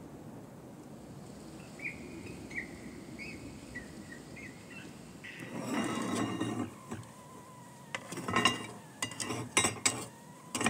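Cast-iron stove-top rings and lids of a wood-burning cookstove clinking and scraping as they are set in place over the firebox, a run of sharp metal clinks in the last few seconds. Before that there is a low steady background with a few faint high chirps and a brief rushing noise.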